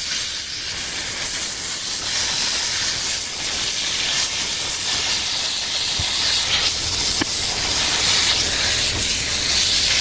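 Continuous loud hiss of pressurized gas escaping, even and without pitch, with a faint tick about six seconds in.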